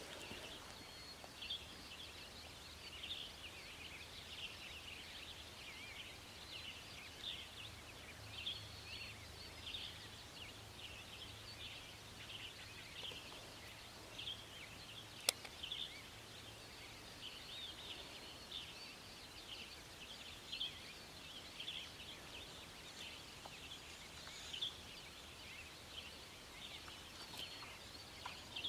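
Faint chorus of small songbirds chirping and singing throughout, with a single sharp click about fifteen seconds in.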